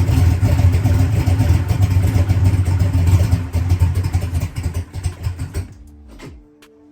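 Drag race car engine running at idle, loud and uneven, just started on its new Enderle fuel pump, which is holding about 80 pounds of fuel pressure. The engine sound drops away near the end and music comes in.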